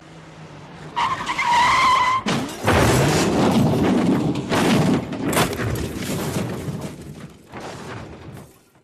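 Car skid-and-crash sound effect: a short tyre screech about a second in, then a loud, noisy crash and skid that fades away near the end.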